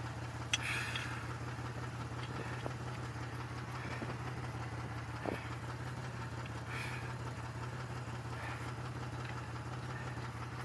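2002 Chevy Malibu's engine idling steadily, with a sharp click about half a second in and a light knock about five seconds in.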